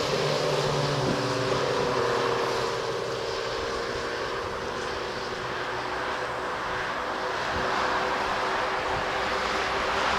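Airbus A220-100 jet engines (Pratt & Whitney PW1500G geared turbofans) running: a steady jet noise with a few held tones, easing a little in the middle and swelling again near the end.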